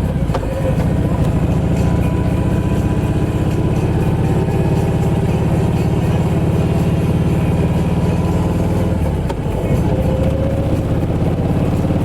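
Kawasaki Vulcan Voyager motorcycle engine running steadily under way. Its note dips briefly about nine seconds in, then picks up again.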